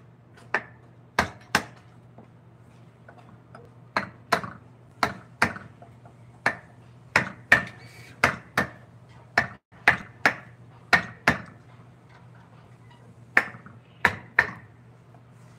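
Mallet striking a carving chisel into wood: about twenty sharp knocks, often in quick pairs, with short pauses between runs, over a steady low hum.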